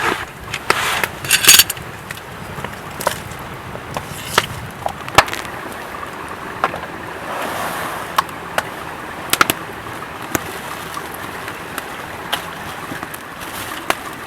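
Scattered sharp clicks and knocks at irregular intervals, with a couple of short rustles in the first two seconds, over a quiet outdoor background.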